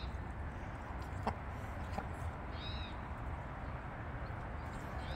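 Three short, high-pitched arched bird calls a couple of seconds apart over a steady low rumble, with two faint taps in between.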